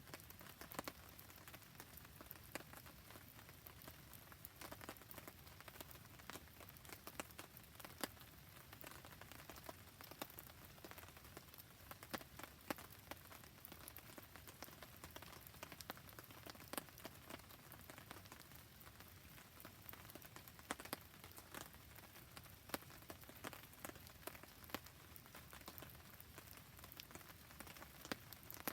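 Steady rain falling on a wood campfire: an even hiss of rain with many small irregular ticks and pops from drops and crackling wood.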